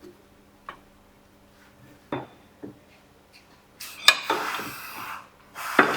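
Metal tools and parts clinking and scraping during hands-on work: a few separate clicks, then two longer stretches of scraping and rattling near the end, the first with a sharp clink.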